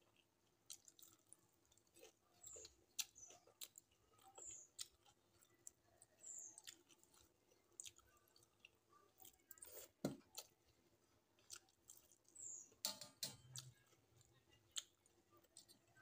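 Faint close-up eating sounds: a person chewing rice and onion pakora with the mouth closed, with scattered wet mouth clicks and smacks. Fingers mix rice against a metal plate, and there are a couple of louder clicks about ten and thirteen seconds in.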